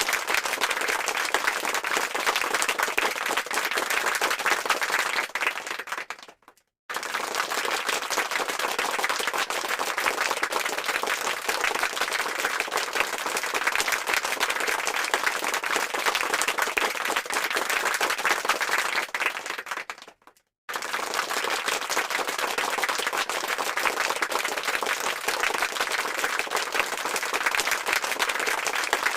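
Applause sound effect: a crowd clapping densely and steadily. It fades out and breaks off to silence twice, about six and a half and twenty and a half seconds in, then starts again at full level.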